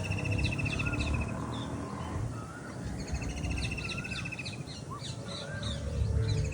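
Several birds calling at once. A fast trill of rapidly repeated high notes comes twice, at the start and about three seconds in, among short chirps and rising-and-falling whistled calls. A low rumble runs underneath.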